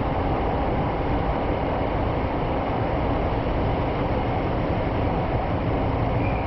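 Kyoto City Subway Karasuma Line train running through an underground tunnel, heard from inside the car: a steady rumble of wheels and running gear on the track.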